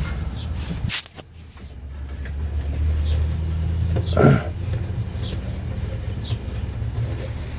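Small birds chirping in brief high notes every second or two over a steady low rumble, with one louder short call about four seconds in.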